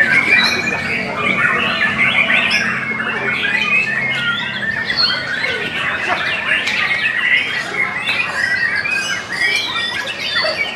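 Many caged songbirds singing and chattering at once, a dense tangle of quick, overlapping squawky phrases and trills.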